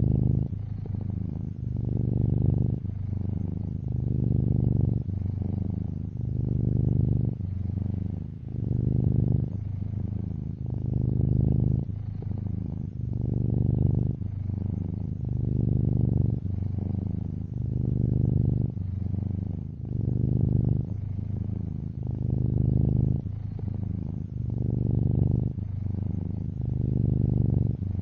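Domestic cat purring steadily. The purr swells and eases with each breath, about once every two seconds.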